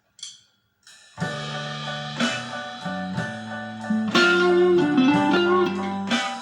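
Electric guitar with Lace Sensor Gold pickups through a Fender active circuit, played clean: a short click, then sustained notes from about a second in, with a note bent and wavering near the middle.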